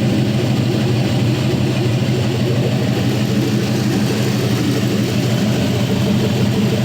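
4.8L Gen 3 LR4 LS V8 engine idling steadily.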